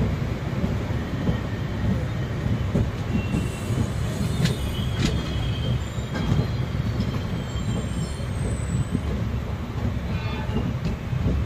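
Passenger train coach running along the rails, heard from its open door: a steady low rumble of wheels on track, with a few sharp clicks near the middle and a faint, brief wheel squeal.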